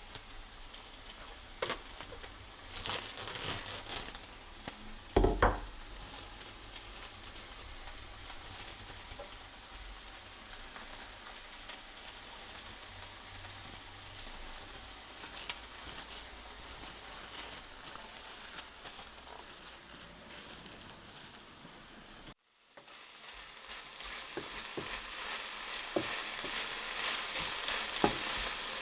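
Fajita filling sizzling and frying in a hot pan, with a few knocks of a utensil against the pan as it is stirred, the loudest about five seconds in. The sizzle cuts out abruptly about 22 seconds in, then starts again and builds steadily.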